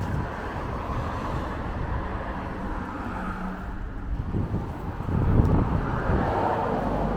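Strong wind buffeting the microphone, rumbling in gusts that swell about four to five seconds in, over steady outdoor noise.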